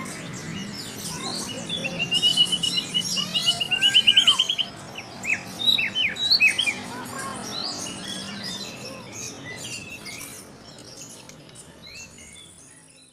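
Caged songbird singing a varied song: a fast trill of rapidly repeated notes, then a string of sharp falling whistles, growing fainter toward the end.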